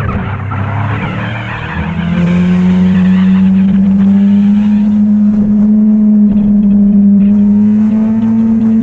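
Motorcycle engine running under way at a steady pitch. A rush of noise fills the first two seconds, then the engine's pitch dips and climbs back about two seconds in and holds steady.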